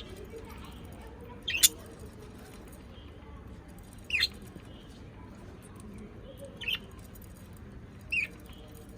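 A small pet parrot giving short, sharp chirps that fall in pitch, about one every two to three seconds, over a low steady background noise.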